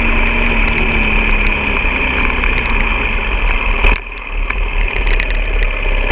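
Off-road motorcycle engine running steadily with a constant high whine over a low rumble. The sound drops briefly about four seconds in, then picks up again.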